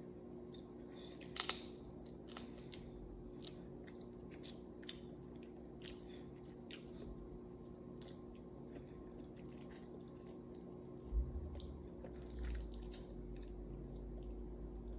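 A person chewing and biting seafood close to the microphone, with many short crisp clicks and crunches, the loudest about a second and a half in and again near 11 seconds. A steady low hum runs underneath.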